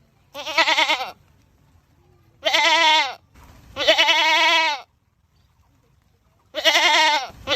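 Goat screaming: four loud bleating calls, each under a second long, with short quiet gaps between them; the first and last calls waver in pitch, the middle two are steadier.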